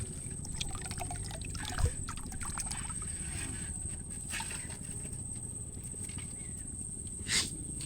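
Water trickling and dripping, with scattered light clicks and splashes, a short thump about two seconds in and a brief louder splash near the end.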